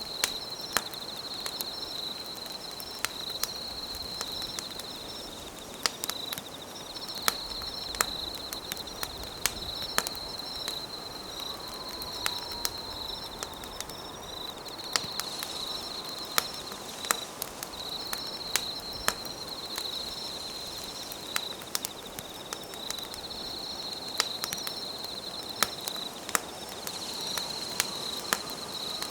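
Campfire crackling with sharp, irregular pops, over insects trilling at a high, steady pitch in long phrases broken by short pauses.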